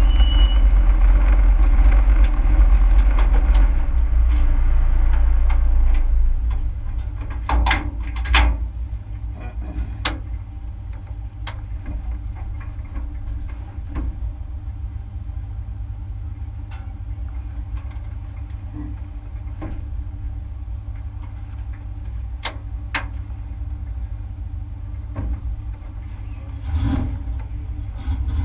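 Race truck engine heard from inside the cab: a loud low rumble that eases off about six seconds in to a quieter, steady low hum, with scattered sharp clicks and knocks from the cab.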